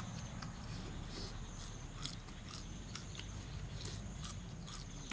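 A person chewing crunchy fried crickets, a run of irregular crisp crunches close to the mouth. A steady high insect drone goes on behind it.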